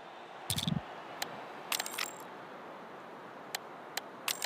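Camera shutters clicking a handful of times, singly and in quick pairs, over a steady background hiss.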